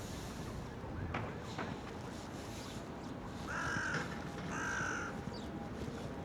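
A crow cawing twice, two harsh calls about a second apart, over steady outdoor background noise.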